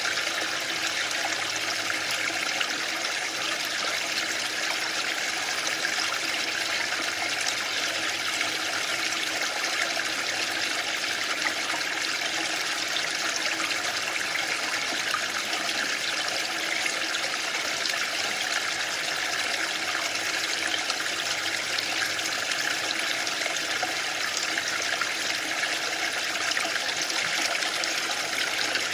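Waterfall: water falling and rushing steadily, an even hiss with no pauses.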